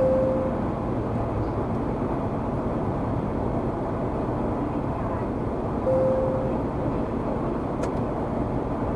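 Steady road and engine rumble of a moving car. A short electronic beep sounds at the start and again about six seconds in.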